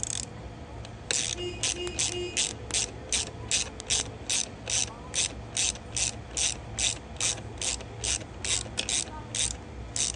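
Ratchet wrench clicking in short, even back-strokes, about two to three a second, starting about a second in, as it tightens a hex-head (6 mm) bolt.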